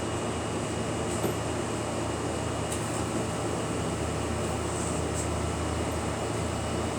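A steady machine hum with a constant hiss over it and a few faint clicks.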